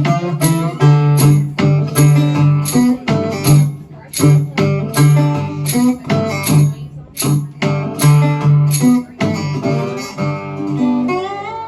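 Live instrumental music: a guitar strumming chords in a steady, even rhythm over a low bass part, playing out a reggae song, winding down near the end.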